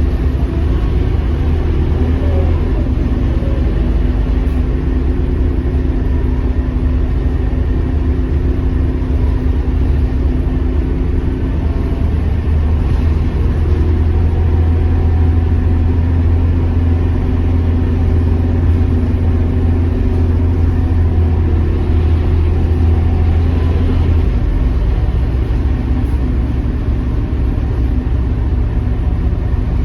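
Scania K230UB bus engine running under way, a deep steady drone with road noise. The engine note shifts partway through and drops back noticeably about two-thirds of the way in, as the bus eases off.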